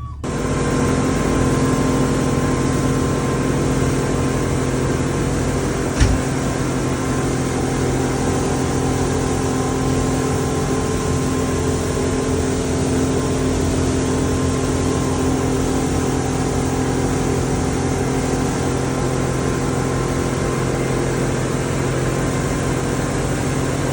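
Boat engine running steadily at a constant speed, a single low drone with an even set of tones that does not change. A short knock about six seconds in.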